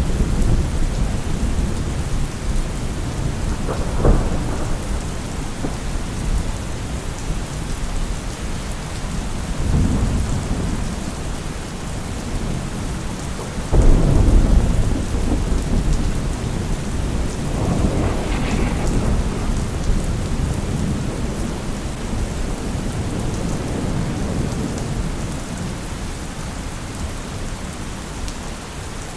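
Thunderstorm: steady heavy rain with rolls of thunder rumbling every few seconds, the loudest a sudden clap about halfway through that rumbles on for a few seconds.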